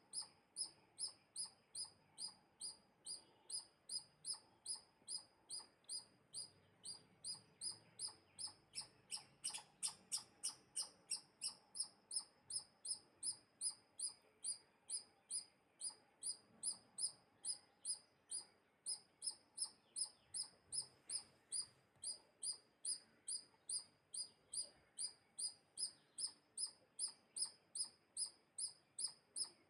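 A bird's short, high-pitched chirp repeated very evenly about twice a second, with a brief flurry of busier chirps about a third of the way in.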